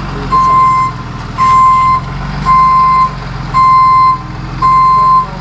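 Tow truck's reversing alarm beeping steadily, five long beeps about a second apart, over the low hum of the truck's idling engine as it backs up.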